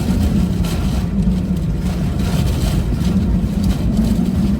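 Steady low rumble of a vehicle running, with wind buffeting the microphone.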